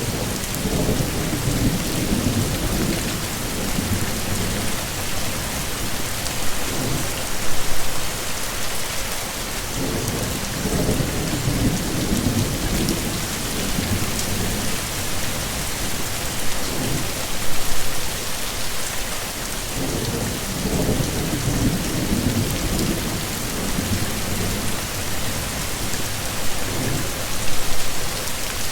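Heavy rain falling steadily, with low rumbles of thunder swelling and fading several times and a brief louder burst about every ten seconds.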